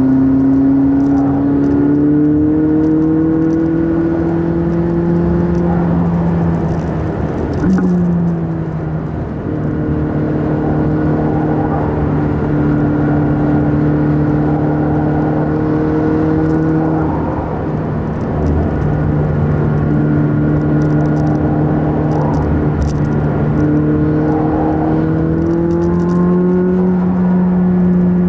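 McLaren 600LT's twin-turbo V8 heard from inside the cabin while cruising on a winding road, with tyre and road noise underneath. The engine note climbs slowly over the first several seconds, dips briefly around eight seconds in, then holds fairly steady with small rises and falls.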